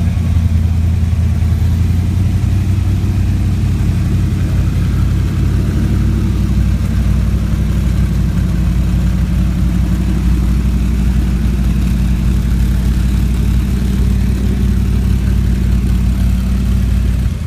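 Car engine idling steadily with a deep, even rumble.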